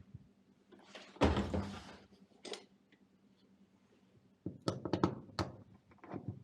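A heavy thunk, then a single click and a quick run of clicks and knocks. These are sheet-metal handling sounds, such as a Lennox furnace's access panel being unlatched and taken off.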